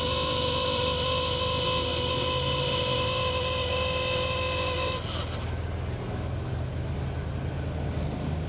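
Vintage cars' engines running low as they drive slowly past. Over them a steady high-pitched whine holds one pitch and cuts off abruptly about halfway through.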